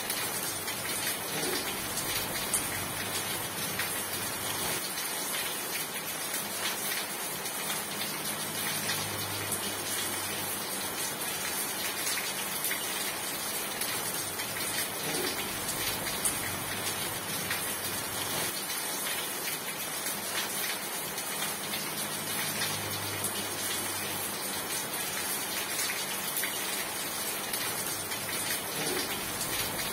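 Steady heavy rain falling, an even hiss of many raindrops striking a surface.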